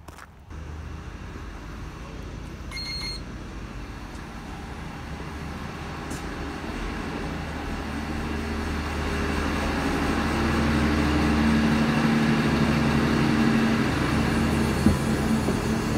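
Passenger train at a platform and then from inside its vestibule: a short electronic beep about three seconds in, then the train's steady low running hum, which grows louder through the second half.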